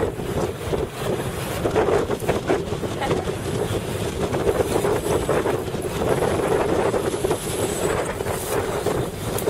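Strong wind buffeting the microphone on a boat on open water, with a steady drone underneath.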